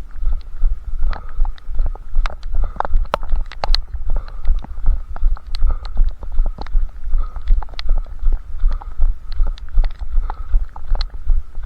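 A runner's footfalls thumping steadily at about three strides a second, each stride jolting the head-strapped camera, with scattered sharp clicks over the top.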